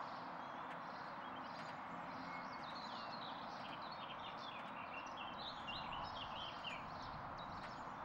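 Train running along the track, heard from on board: a steady rumble with a rhythmic clatter from the wheels, and a run of short high chirps in the middle.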